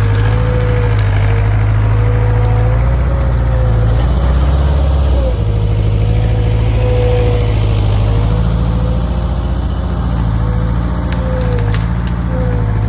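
Skid steer engine running steadily at working revs while the machine pushes logs, with a whine above the engine note that wavers in pitch. The engine note shifts about five seconds in.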